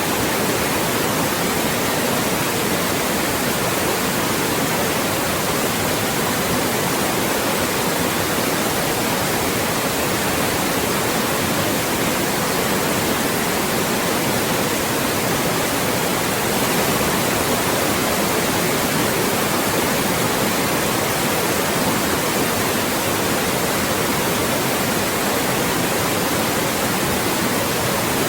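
Loud, steady white noise, an even hiss across the whole range with no changes.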